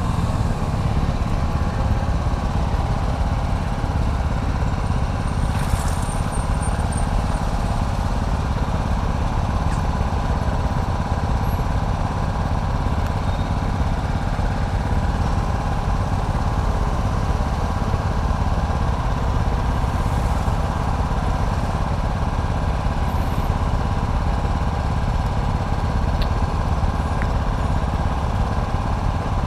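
Vehicle engine idling steadily while stopped at a red light.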